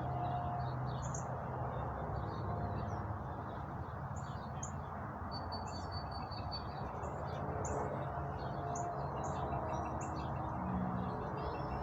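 Small birds chirping, short high chirps repeated on and off, over a steady background rush.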